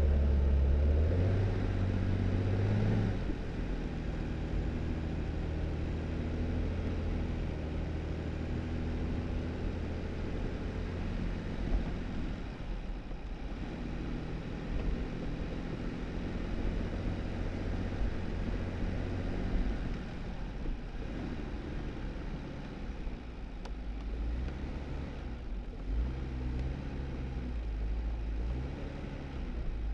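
2018 Jeep Wrangler's engine running while driving on a snowy dirt road, its pitch stepping up and down with speed, over steady tyre noise on the snow. It is louder for the first few seconds.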